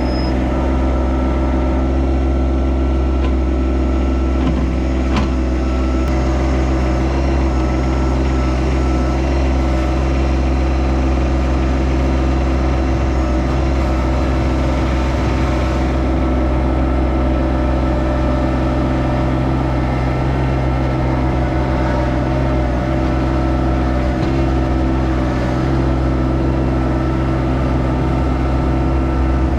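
Yanmar SA324 compact tractor's three-cylinder diesel engine running at a steady speed.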